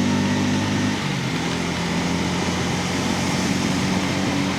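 Bajaj Pulsar N250's single-cylinder engine running under way, its steady note shifting about a second in, with wind and road noise rushing over the microphone.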